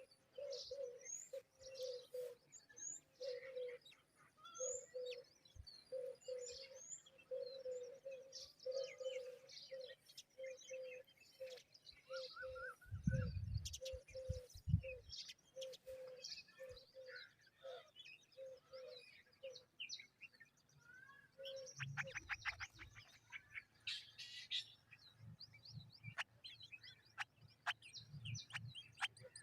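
Several birds calling. A low note repeats about twice a second and stops about two-thirds of the way in, under many short high chirps and whistled glides, with a rapid rattling series near the end. A few loud low thumps come about halfway through.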